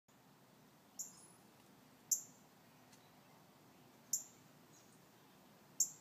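A bird giving short, high-pitched chirps, four in all, one every second or two, over a faint steady background hiss.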